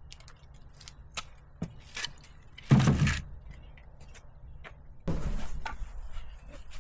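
Split firewood logs knocking together as they are handled and stacked, with light clacks, one loud wooden clunk a little under three seconds in, and a rough scraping rustle from about five seconds in.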